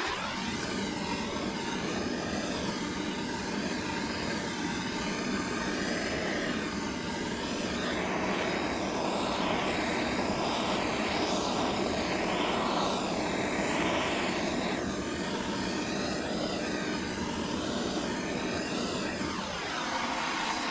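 Excavator's diesel engine running under load while digging, with the hydraulics working. It revs up right at the start, changes pitch through the middle and drops back toward idle near the end.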